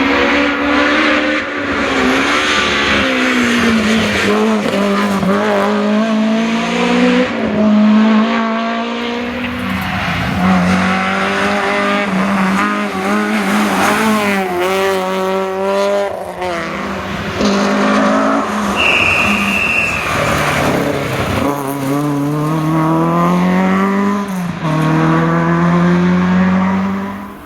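Historic rally car engines revving hard on a rally stage. The pitch climbs and falls again and again as they accelerate and change gear, and a brief high steady tone sounds about two-thirds of the way through.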